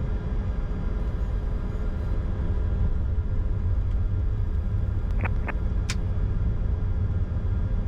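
Cockpit noise of a Bombardier Challenger 605 taxiing: a steady low rumble with its GE CF34 turbofans at idle and faint steady tones above it. A few brief clicks a little past halfway.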